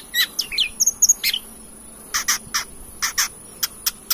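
Long-tailed shrike (cendet) singing: quick varied chirps with pitch glides in the first second and a half, then a series of short sharp calls, over a thin steady high tone.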